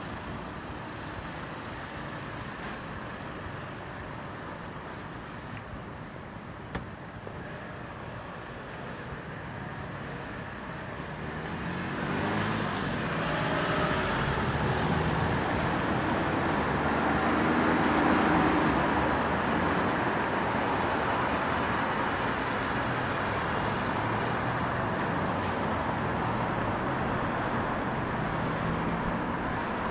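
Road traffic passing on a city street: a steady hum of cars, with one short click about seven seconds in. It grows louder about twelve seconds in as vehicles pass close, loudest a few seconds later, and stays busier after that.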